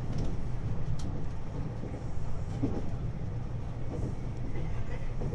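Onboard running sound of a 521-series electric multiple unit: the steady low rumble of the train under way, with a sharp click about a second in.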